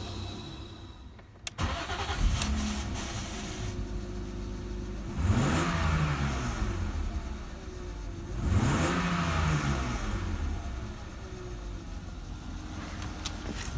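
BMW M52B25 2.5-litre straight-six engine starting about a second and a half in, then idling. It is revved twice, each time rising and falling back to a steady idle.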